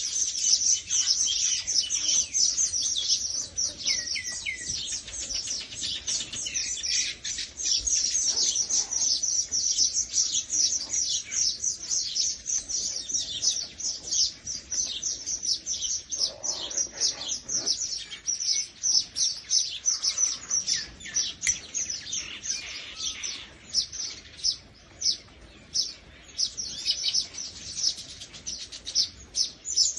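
Many small birds chirping together in a fast, continuous chatter of short, high, downward-sliding notes, several a second, thinning out briefly about three-quarters of the way through.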